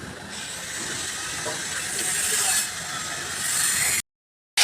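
A steady hiss with faint mechanical rattles, swelling a couple of times and then cutting off suddenly near the end.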